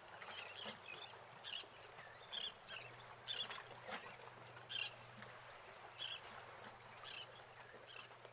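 Birds chirping: short high chirps, irregular, about one to two a second, over a faint steady hum and hiss.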